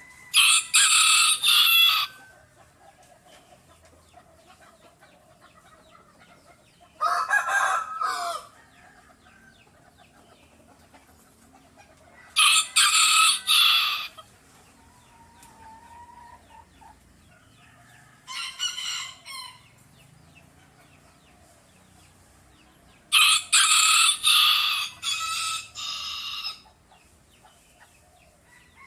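A rooster crowing five times, roughly every five to six seconds. Each crow is loud and lasts one to three seconds; the fourth is quieter and the last is the longest.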